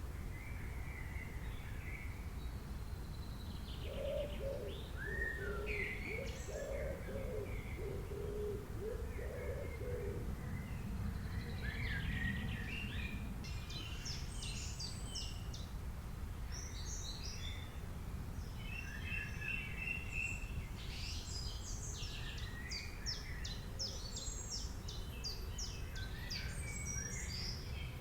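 Several wild birds calling and singing with short chirps and quick trills, busiest in the second half. A lower-pitched call repeats from about four to ten seconds in, over a steady low background rumble.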